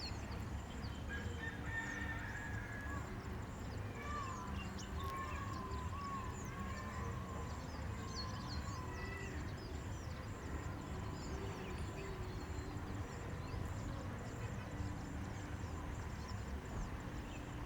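Birdsong: many short, thin, high chirps and quick pitch-sliding notes, typical of a purple sunbird calling, scattered throughout. A lower, wavering run of notes from another bird comes between about four and nine seconds in, over a steady low rumble.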